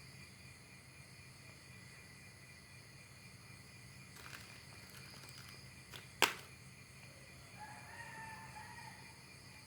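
A rooster crowing faintly, one call of about a second and a half near the end, over a steady high drone of insects. About six seconds in there is a single sharp click, the loudest sound.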